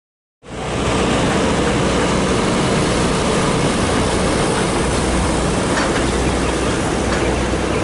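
Locomotive at close range, running steadily: a heavy low engine hum under broad mechanical noise, with a few faint clicks. It starts abruptly about half a second in.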